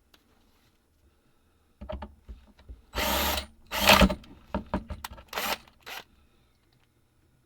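A handheld power drill run in about four short bursts, with knocks and clicks between them.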